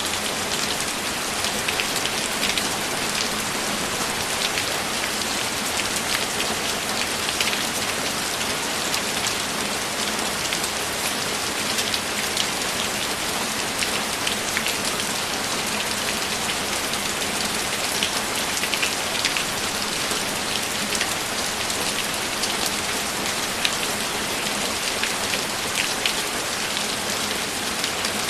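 Steady rain, falling evenly throughout, with many separate drops ticking on a surface.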